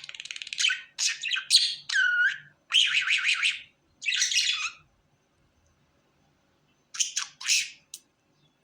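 Pet budgerigar chattering in quick, scratchy runs mixed with short whistles. It goes quiet for about two seconds past the middle, then chatters again near the end.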